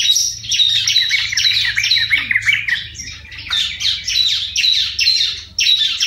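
Yellow-vented bulbul (trucukan) singing a fast, bubbly chatter of quick notes without a break, with a run of rapid repeated notes about a second in.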